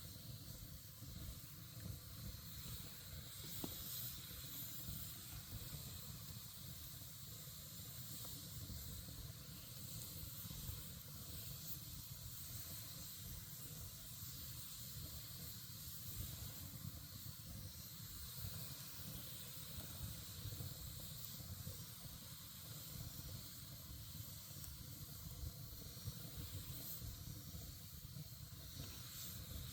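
Campfire burning with a steady hiss and a few faint crackles, over a low rumble.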